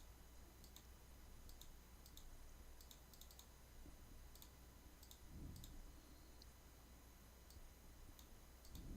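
Near silence with a series of faint, irregularly spaced computer mouse clicks as waves are drawn on a chart.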